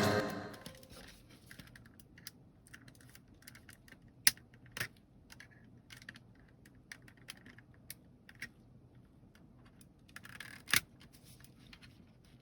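Small, irregular clicks and scratching of hands working on a plastic computer mouse, with a sharper click about four seconds in and another near the end.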